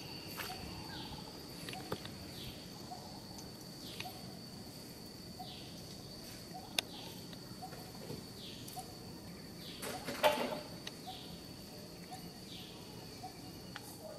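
Outdoor ambience: a bird's short falling calls repeat about once a second over a steady high-pitched drone. A brief, louder noise comes about ten seconds in.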